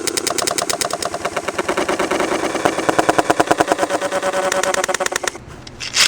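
Spinning Beyblade Engine Gear tops rattling against each other in a plastic stadium: a fast, even clatter of about a dozen clicks a second that stops suddenly about five seconds in, followed by one sharp click near the end.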